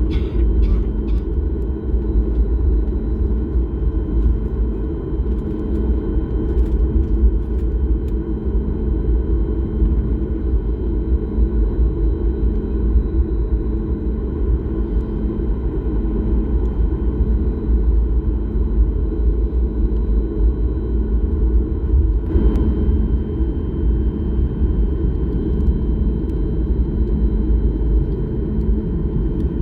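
Steady rumble of an airliner's engines and airflow heard inside the passenger cabin, with a faint steady high whine above it.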